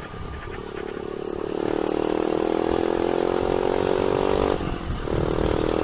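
Motorcycle engine pulling under throttle, its pitch rising slowly as the bike accelerates. It drops out briefly about four and a half seconds in and then picks up again.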